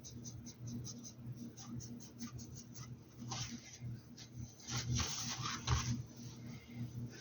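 Paintbrush strokes against a hat: quick short scratchy dabs for the first few seconds, then longer rubbing strokes in the middle, over a steady low hum.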